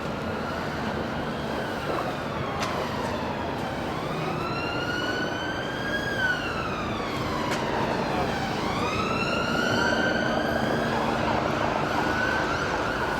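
Emergency-vehicle siren wailing, its pitch slowly rising and falling in long sweeps, over a steady low rumble.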